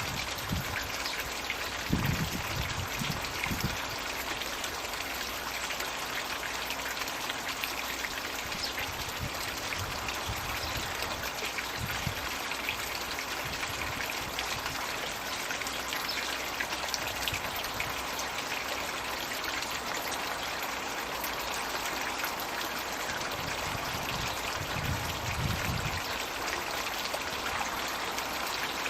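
Floating 'Magic Bucket' pond water feature pouring and splashing steadily into the pond. A couple of brief low rumbles come about two seconds in and again near the end.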